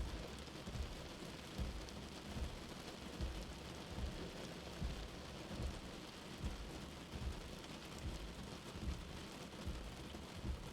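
Steady rain, mixed to sound as if heard from inside a shelter, with a soft low heartbeat thumping regularly underneath, about once every 0.8 seconds.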